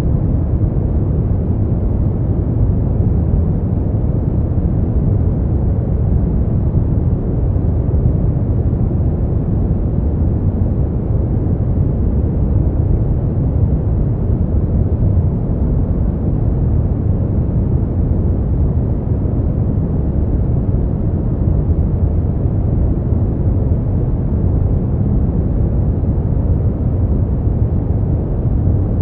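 Steady noise track for sleep, billed as white noise but deep and dark, with most of its weight in the bass and no treble. It stays even throughout, without any change or separate event.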